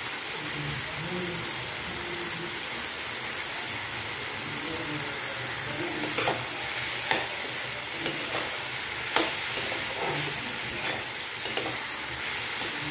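Mushrooms and vegetables sizzling steadily as they fry in a wok, with a metal spatula stirring them and clacking against the pan several times in the second half.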